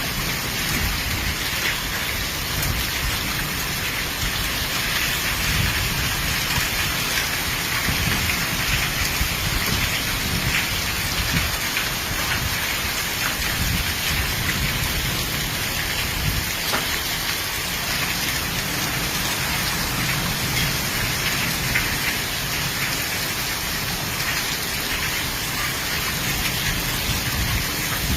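Heavy rain pouring steadily, with irregular low rumbling underneath.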